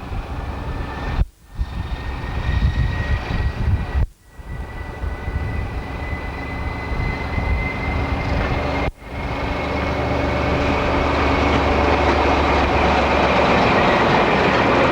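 Diesel train running on the line, with a whine that slowly rises in pitch and a rumble that grows louder toward the end. The sound cuts out completely for a moment three times.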